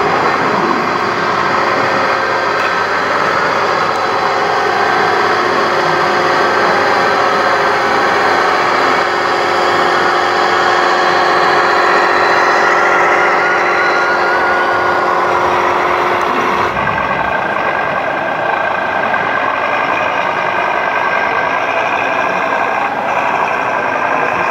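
Radio-controlled model trucks and construction machines running, a steady engine-like drone with motor whine and several held tones. The sound changes abruptly about two-thirds of the way through.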